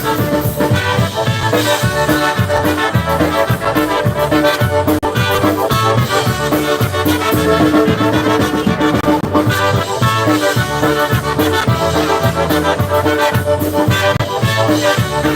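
Live polka band playing an instrumental passage: accordion and brass over a steady, evenly repeating bass beat.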